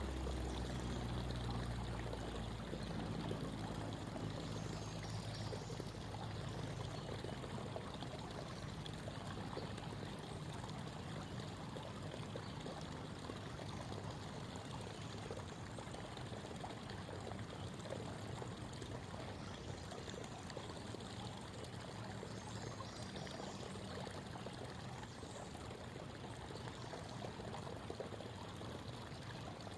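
Creek water babbling and trickling steadily. A low motor hum is loud at the start and fades away over the first several seconds, and faint bird chirps come through now and then.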